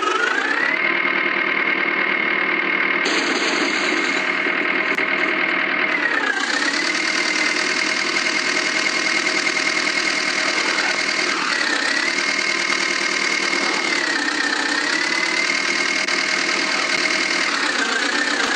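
Tractor engine running at high revs, its pitch sagging briefly and recovering about five times, as if under load.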